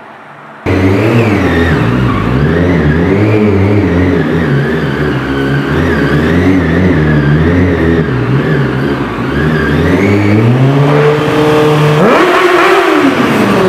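Sport motorcycle engine revving hard, the throttle rising and falling continually as the bike is held in a wheelie, with a sharp rev up and back down near the end. It starts abruptly under a second in.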